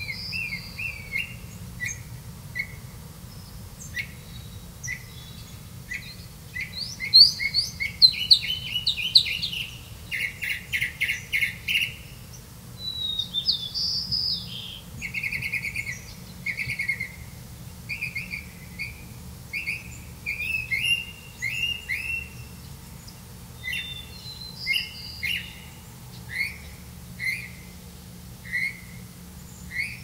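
Bird chirping: a long series of short, high chirps, some sliding in pitch, coming in quick runs about a third of the way in and again past the middle, over a low steady hum.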